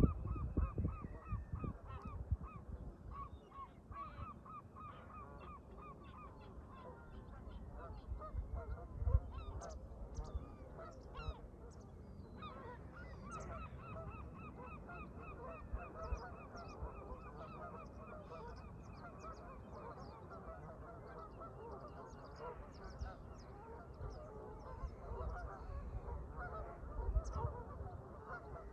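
A flock of Canada geese honking, with many short calls overlapping one after another. Thinner, higher-pitched calls from other birds come and go over them, and low wind rumbles on the microphone in a few gusts.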